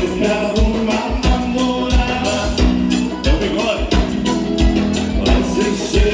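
Live gaúcho dance band playing an instrumental passage with a steady dance beat and sustained melody lines.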